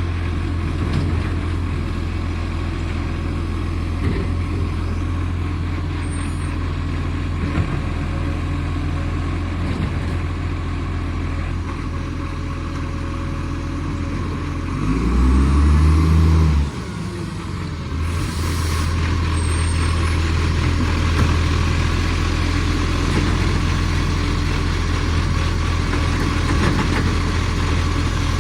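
Garbage truck's diesel engine running with an exhaust leak. Midway the engine note rises and falls and gets louder for a couple of seconds, then cuts back sharply. A brief air hiss follows soon after.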